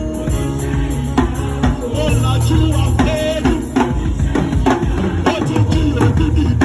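Live gospel praise band playing an upbeat number: drum kit and tambourine keeping a steady beat over a sustained bass line, with voices singing.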